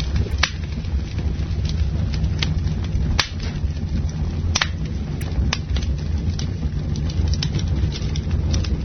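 Campfire burning with a steady low rumble of flames and scattered sharp crackles and pops from the burning wood.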